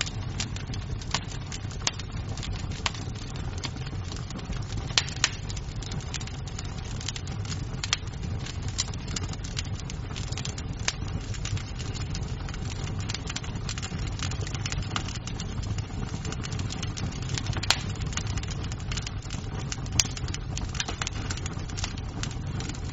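Wood fire crackling in a fireplace: a steady low rumble with irregular sharp pops and snaps, a few louder cracks scattered through.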